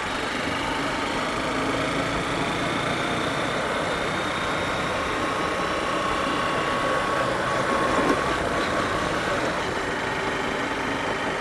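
A motor vehicle running steadily, its engine and road noise holding an even level.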